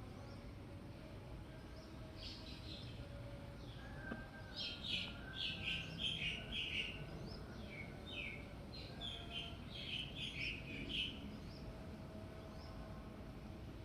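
A small bird chirping: a run of short, high chirps in quick clusters from about four seconds in until about eleven seconds, over a steady low background noise.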